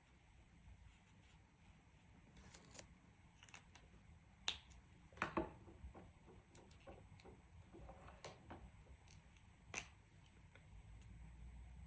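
Faint handling of colouring tools: a few sharp, light clicks and taps over a low room hum, the loudest about four and a half, five and ten seconds in.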